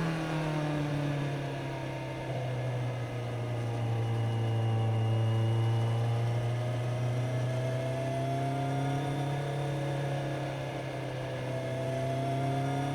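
Kawasaki Z900's inline-four engine heard onboard. Its note drops as the throttle closes at the start, then runs low and fairly steady, climbing slightly about two-thirds of the way in.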